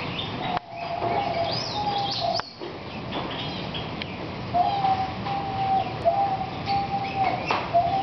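Aviary birds calling: long, steady whistled notes, one about a second in and three in a row from the middle on, with quick higher chirps around the first.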